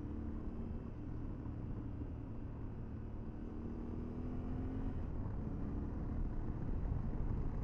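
Motorcycle engine running under way, heard with low road and wind rumble through a helmet-mounted camera; the engine note rises gently, then breaks off about five seconds in, and the rumble grows louder toward the end.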